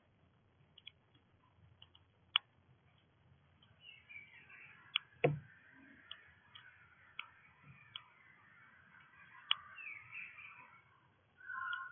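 Small birds chirping and twittering at a bird feeder, busiest from about four seconds in. Sharp clicks and taps come now and then through the whole stretch.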